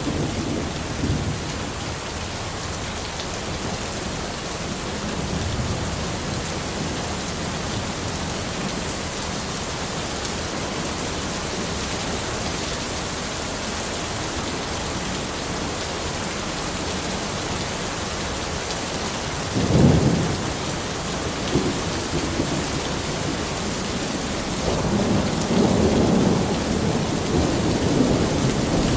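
Steady rain falling in a forest, an even hiss throughout. A sudden low rumble comes about twenty seconds in and a longer, louder one near the end, like thunder.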